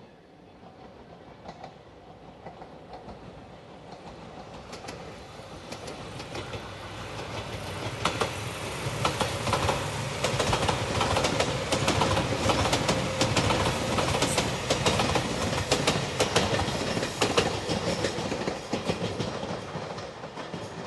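Five-car JR Shikoku 8000-series electric limited express approaching and passing, its wheels clattering over rail joints. It builds from faint to loud over about eight seconds, stays loud for around ten seconds, then begins to fade near the end.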